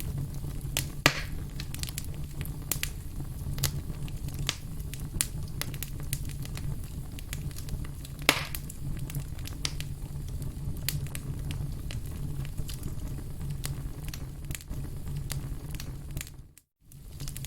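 Campfire crackling: a steady low rumble of burning wood with frequent sharp pops, two of them louder, about a second in and a little past the middle. The sound drops out to silence for a moment near the end.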